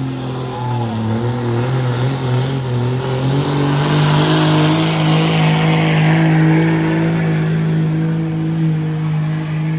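Engine of a pulling truck or tractor running hard during a pull. Its pitch dips about a second in, then rises and holds steady at high revs.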